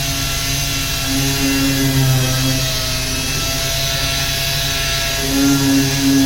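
Power sander running steadily on car paint, with a steady motor hum that swells louder twice as the tool bears into the work.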